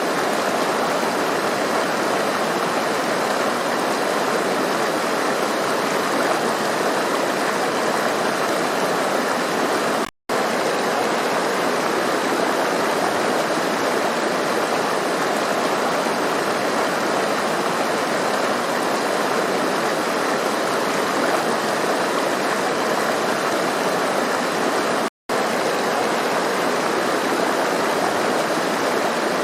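A rushing stream running and splashing over rocks: a steady, dense rush of water. It cuts out to silence for a split second twice, about ten seconds in and again near the end.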